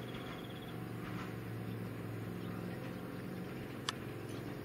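Steady low mechanical hum of a train standing at the station platform, with a single sharp click about four seconds in.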